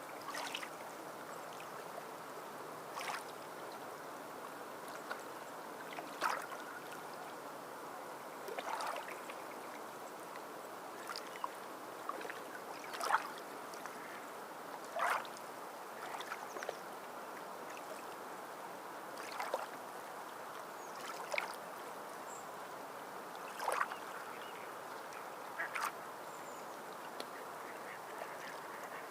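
Steady wash of sea water, with a short sharp sound breaking through every couple of seconds.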